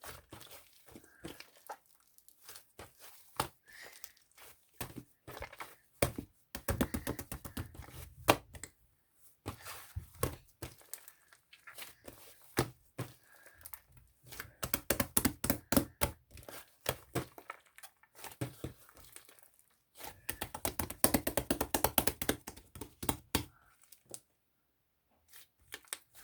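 Crinkling, crackling handling noise in several spells of a few seconds each, with scattered sharp clicks between them.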